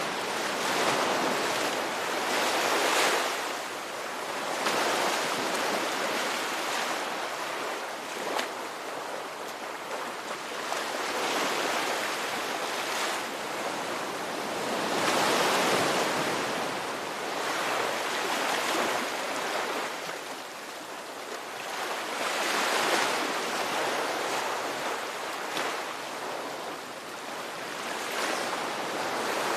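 Ocean waves breaking and washing in on a shore, a steady rushing surf that swells and falls back every few seconds.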